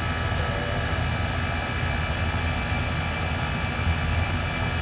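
Trane XE1000 heat pump outdoor unit running steadily in cooling mode while it is being charged with R22: the compressor's low hum under the whoosh of the condenser fan.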